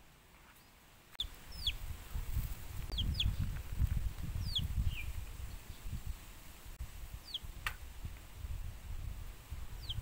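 A bird's short, high chirps, each falling in pitch, come singly or in pairs every second or so over a low, uneven rumble that starts about a second in. There is one sharp click a little before 8 seconds.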